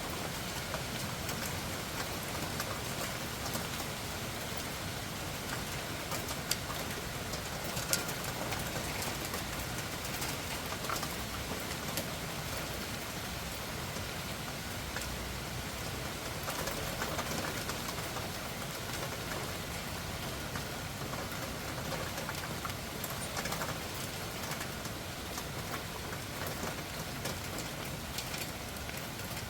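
Heavy rain falling steadily: a constant hiss scattered with sharp ticks of single drops striking surfaces.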